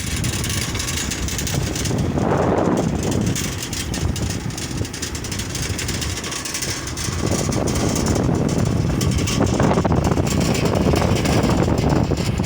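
A vehicle running along a road, its engine and travel noise buried under heavy wind rush on the microphone, swelling about two seconds in and again over the second half.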